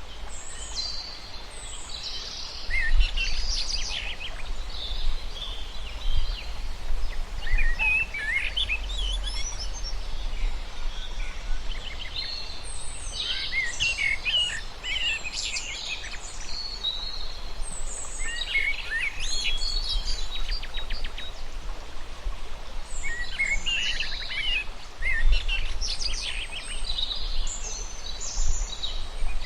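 Several birds chirping and twittering in quick, overlapping bursts of high calls, over a steady low rumble.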